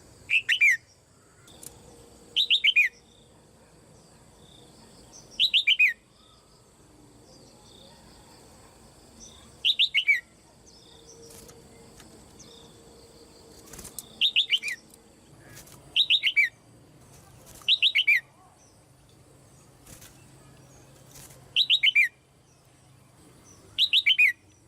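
Red-whiskered bulbul calling about nine times, each call a short quick run of notes falling in pitch, a few seconds apart. It is a caged female's call, used to stir other bulbuls into loud singing.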